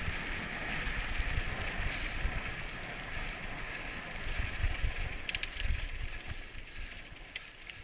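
Bicycle rolling along a rough road with steady wind rumble on the microphone and tyre noise, and a short clatter of clicks about five seconds in. The sound fades down toward the end.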